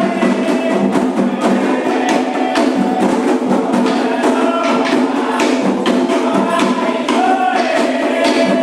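Candomblé ritual music: steady hand percussion with chanted singing over it.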